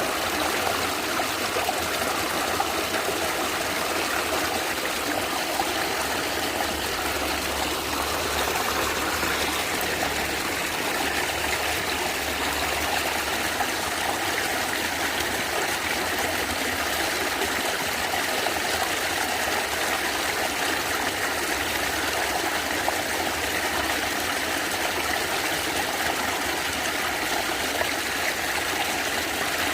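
Natural stream water gurgling and trickling steadily.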